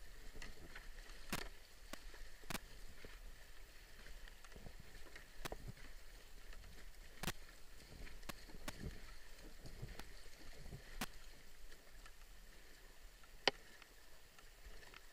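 Canoe being paddled down a river: irregular splashes and knocks from paddle strokes over a steady rush of moving water, with one sharp knock near the end.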